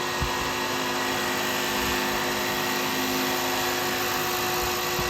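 Wood lathe spinning a cast-resin and burl pen blank at about 3,000 rpm while an R2 carbide cutter takes a light cut: a steady motor hum with the even hiss of the cutter shaving the resin, which is cutting very smooth.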